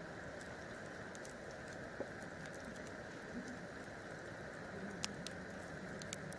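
Wood campfire burning with a steady hiss and scattered sharp crackles and pops. The loudest pop comes about five seconds in.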